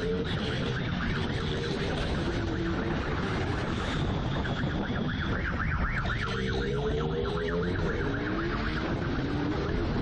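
Police siren wailing up and down in pitch over a steady rumble of motorcycle engine and wind noise during a chase.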